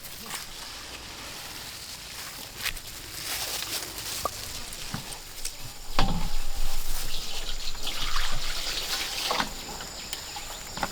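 Liquid trickling and dripping, with scattered clicks and knocks; it grows louder about six seconds in.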